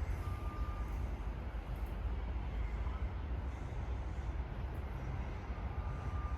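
Steady outdoor background noise with a strong low rumble and a faint high tone that comes and goes.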